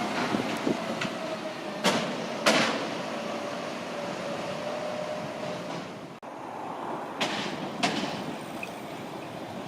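Street traffic noise dying away after a vehicle passes, with two pairs of sharp knocks, each pair about half a second apart. The sound drops out briefly about six seconds in.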